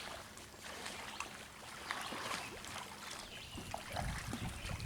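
Creek water trickling and splashing around a kayak, with small splashes and knocks. A low rumble comes in near the end.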